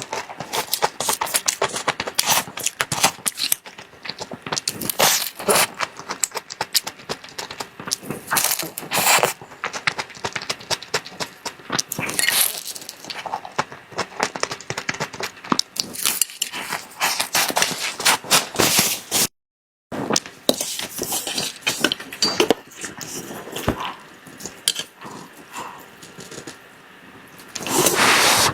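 Close-miked eating of chocolate desserts: a dense, irregular run of sharp wet mouth clicks and crackles from chewing. It breaks off briefly about two-thirds of the way in.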